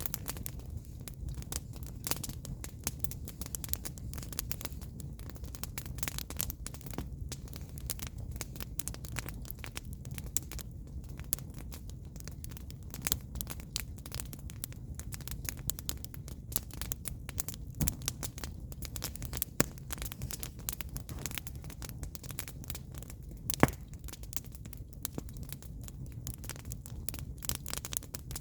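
Firewood burning in an open fire, crackling with a constant scatter of small pops and one louder pop about 23 seconds in, over a low steady rumble.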